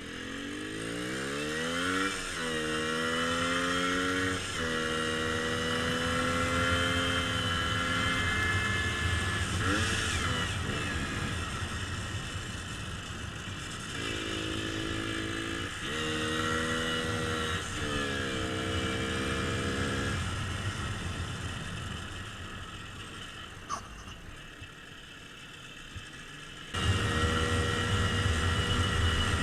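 Minsk two-stroke single-cylinder motorcycle engine accelerating through the gears, its pitch climbing and dropping at each shift, then holding steady before pulling up through the gears again about halfway through. Near the end the sound switches abruptly to a different, steadier engine drone.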